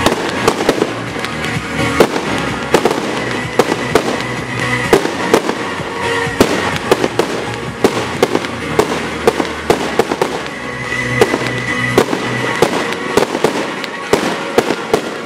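Aerial firework shells bursting in quick succession, a few sharp bangs every second, with music playing underneath.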